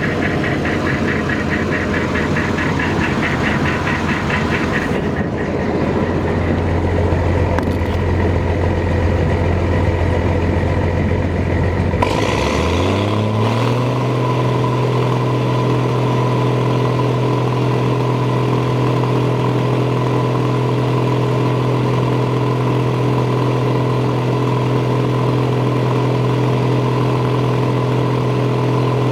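Massey Ferguson 760 combine's six-cylinder Perkins turbo diesel running at a low speed, then revved up about halfway through and held at a steady higher speed.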